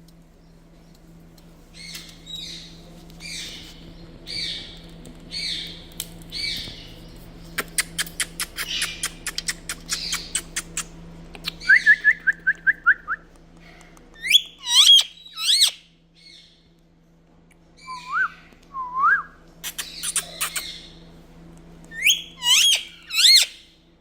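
Indian ringneck parrot calling. It gives a row of raspy squawks about one a second, then a fast run of clicks and a quick string of short chirps. After that come loud whistled calls that sweep sharply up and down in pitch, several of them near the end.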